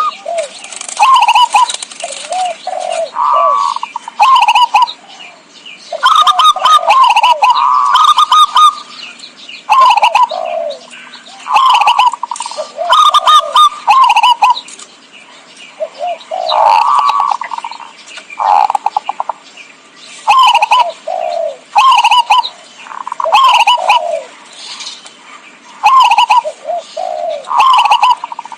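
Zebra doves cooing in short rolling phrases of quick staccato notes, a phrase every second or two, with thin higher chirps mixed in. This is the perkutut call used to lure wild doves.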